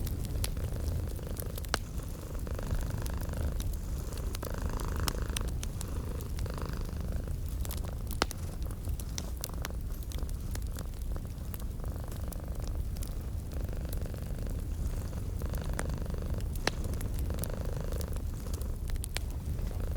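Domestic cat purring steadily in a low, rhythmic rumble, each breath swelling and fading about once a second, mixed with a fireplace's wood fire crackling in sharp scattered pops.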